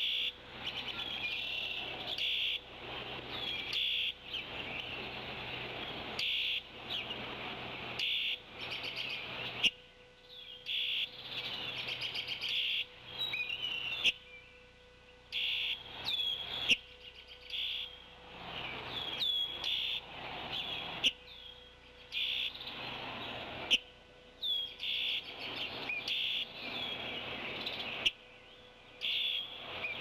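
Birds chirping and calling over and over in short bursts, with quick upward-hooked notes, over a faint steady hum.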